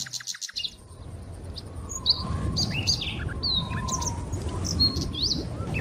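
Birds chirping, a lively scatter of short whistled notes that sweep up and down, over a low steady outdoor rumble.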